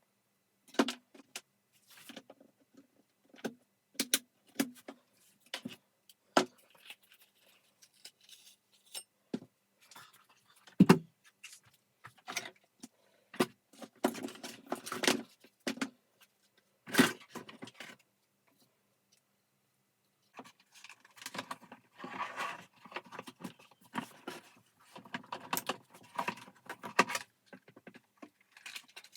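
Vacuum cleaner parts being handled during disassembly: scattered clicks and knocks, two louder knocks, then a continuous rattling of parts from about two-thirds of the way through.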